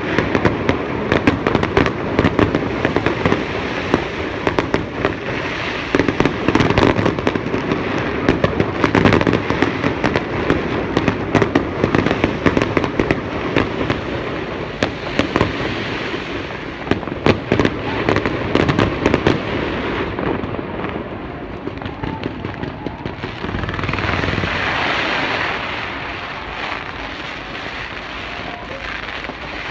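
Aerial fireworks display: rapid, dense bangs and crackles, thinning to scattered pops about two-thirds of the way through, with a brief rushing swell near the end.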